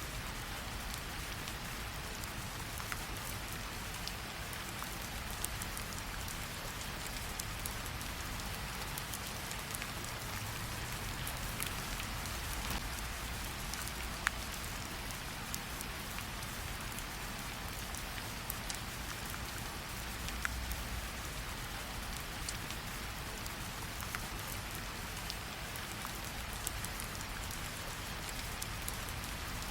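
Steady rain falling, an even hiss over a low rumble, with a fireplace's sharp crackles popping now and then, one louder pop about halfway through.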